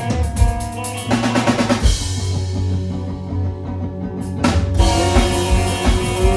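Live band playing an instrumental passage: drum kit with bass drum and snare hits under sustained guitar and bass notes, with a cymbal crash about four seconds in.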